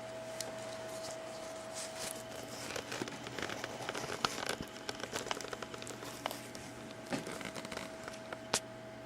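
Irregular crinkling and rustling with many small clicks, busiest in the middle and ending in one sharper click, over a faint steady hum.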